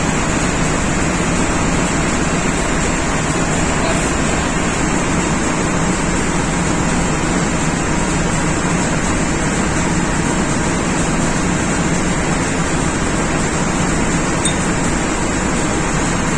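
Steady, loud machinery noise, a constant hum and hiss that does not change, as of running diesel engines in an engine room.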